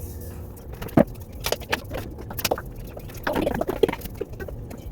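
Craft materials being handled: scattered taps, clicks and rustling, with one sharper knock about a second in and a burst of crinkling a little after three seconds.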